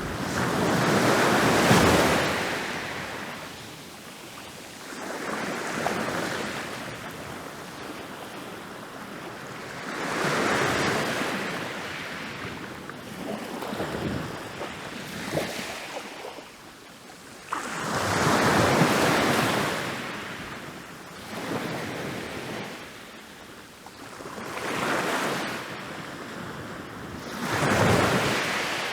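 Ocean waves breaking on a beach and washing back, one crash every few seconds, the biggest about two seconds in and again past the middle.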